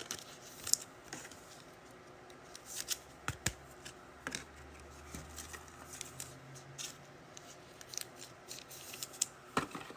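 Faint scattered clicks and crinkles of trading-card packs and cardboard boxes being handled and opened.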